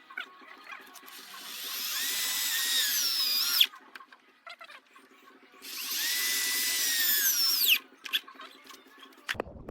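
Electric drill run twice in bursts of about two seconds, a high-pitched motor whine that spins up, holds steady, then winds down with falling pitch as the trigger is released. There are a few small clicks between the runs.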